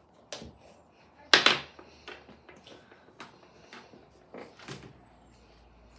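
Kinetic sand being handled: a run of soft, crumbly rasps and crunches, the loudest about a second and a half in, with smaller ones spread after it.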